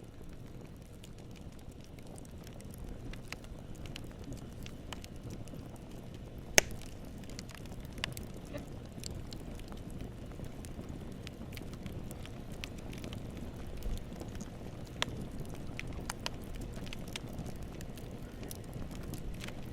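Wood campfire burning: a steady low rumble of flames with scattered sharp crackles and pops, one much louder pop about a third of the way in.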